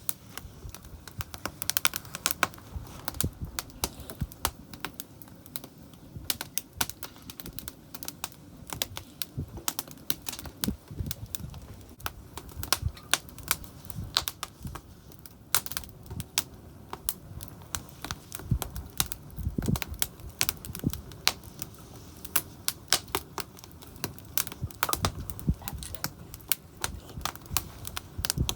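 Wood campfire crackling: a dense run of irregular sharp pops and snaps over a low rumble.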